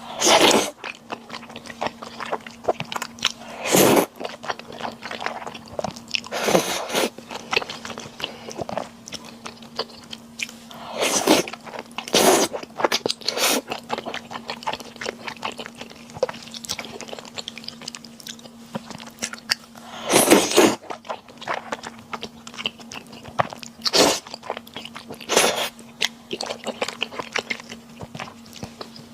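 Close-miked eating sounds from a meal of kimchi stir-fried udon and fresh cilantro: wet chewing and small clicks, broken by a louder crunchy bite every few seconds. A faint steady hum runs underneath.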